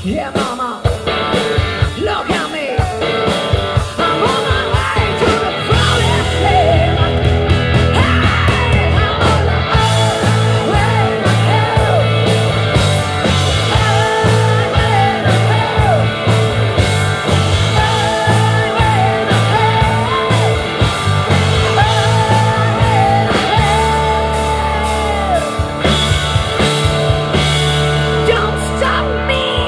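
Live rock band playing loud, with a lead singer's voice carrying the melody over electric instruments, bass and drums.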